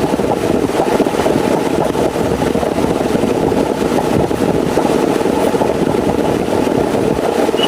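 Heavy rain falling steadily, a dense unbroken patter that sits low and full in tone.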